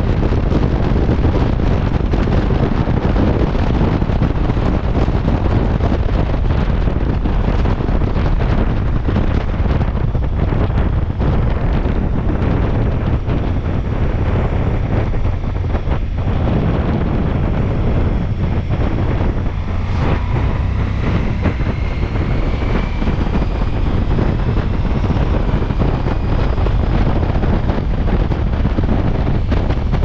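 Heavy wind noise on the microphone of a Ducati Multistrada V4 S being ridden at speed, with the motorcycle's engine running underneath. About two-thirds of the way through there is a brief click, followed by faint higher tones that rise slightly for several seconds.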